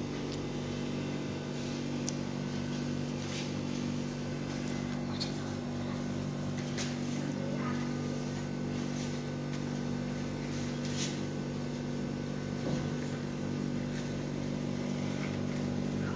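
Steady low electrical hum, with a few faint rubbing sounds of a wet paper towel being wiped over the refrigerator's outer surface.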